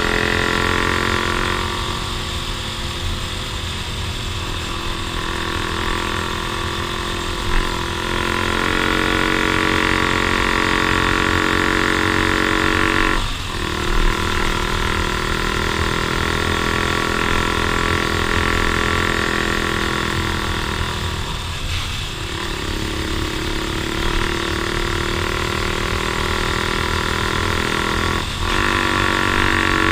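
Off-road vehicle engine running steadily under way, its note breaking and shifting briefly three times.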